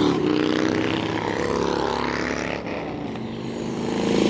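Motorcycle engines running, fading about midway through and growing louder again near the end.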